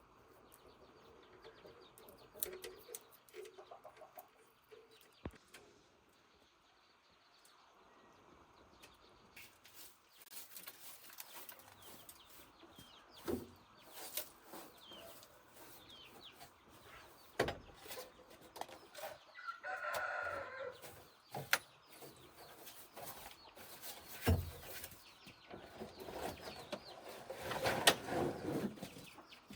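A rooster crowing twice, about twenty seconds in and again, longer, near the end, between scattered sharp knocks.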